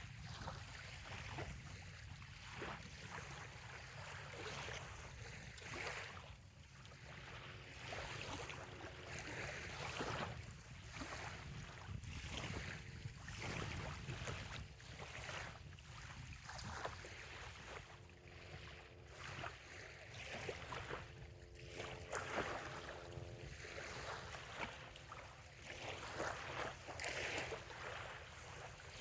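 Small, gentle waves lapping on a sandy bay shore, each wash swelling and fading every couple of seconds, over a low wind rumble. A faint steady hum comes and goes underneath.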